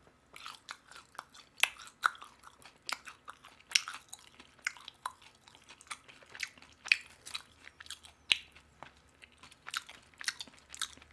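Close-miked chewing of sauced Korean fried chicken: crisp crunches and wet mouth-smacking, several sharp crackles a second.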